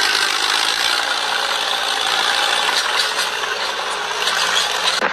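A loud, steady rattling mechanical noise that starts and cuts off abruptly.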